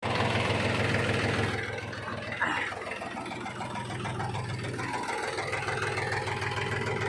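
Mahindra 265 DI tractor's three-cylinder diesel engine running steadily, with a short higher-pitched sound about two and a half seconds in.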